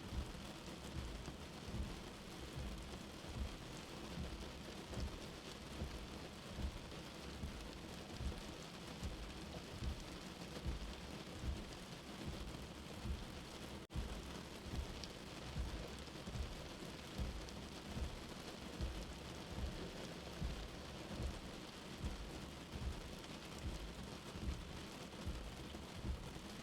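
Steady rain, as heard from a shelter, with a soft low heartbeat thumping about once a second. It cuts out for an instant about halfway through.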